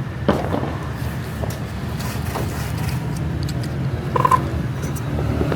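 Steady low rumble of a running motor-vehicle engine, with scattered light clicks and knocks. A short, high beep comes about four seconds in.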